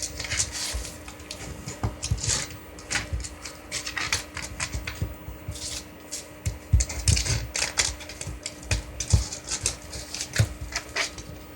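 Cats fighting: irregular scuffling and thumps mixed with short, sharp hisses and spits.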